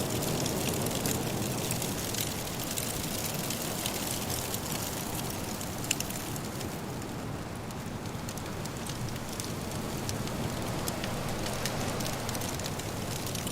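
Firewood crackling in a fireplace, a constant patter of small snaps with a louder pop about six seconds in, over a steady rush of soft blizzard wind.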